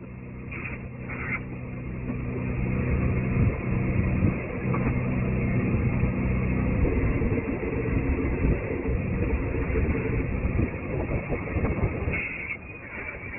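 An engine running steadily with a low rumble, growing louder over the first few seconds, holding, then easing off near the end.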